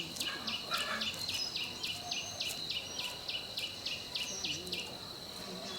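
Insect chirping in a steady high pulse, about five a second, over a continuous high buzz; the pulsing stops a little past four seconds in and the buzz carries on.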